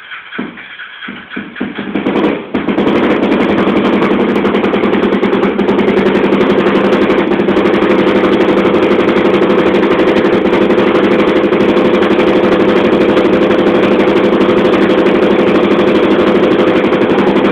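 Honda Tornado single-cylinder motorcycle engine, built out to 300cc, running unevenly and quietly at first, then settling about two and a half seconds in to a loud, steady idle.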